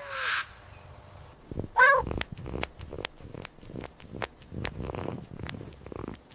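Domestic cat meowing once, about two seconds in, then purring in a run of short repeated strokes, several a second.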